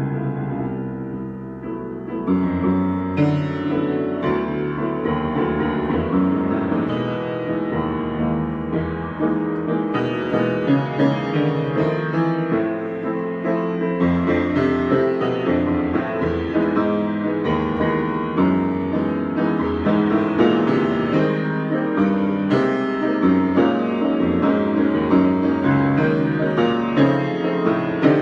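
Piano played as an improvisation, with dense chords and many notes; it grows louder and fuller about two seconds in.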